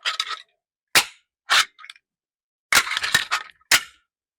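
A gun used for foley gunshot effects firing a series of sharp cracks, about five or six spread unevenly, with several close together near the end.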